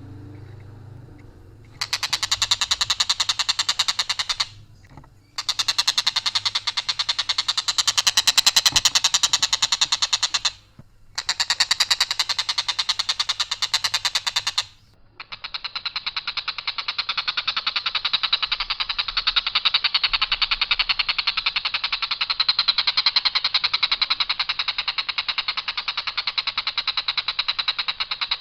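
Tengkek buto kingfisher giving long, harsh, rapid rattling trills on one unvaried note, four long runs broken by brief pauses. The last run, from about 15 s on, sounds duller.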